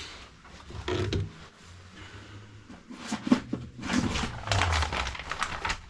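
Irregular handling noises: scrapes, rustling and knocks, with a sharp click about three seconds in.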